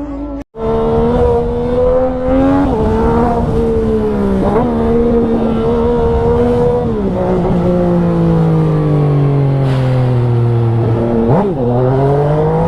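Sport motorcycle engine running hard at high revs, its pitch rising and dipping briefly a few times, then falling slowly before climbing again near the end.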